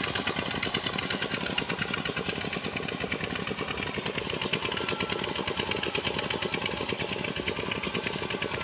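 Sand-mining pump engine running steadily with a fast, even pulsing beat.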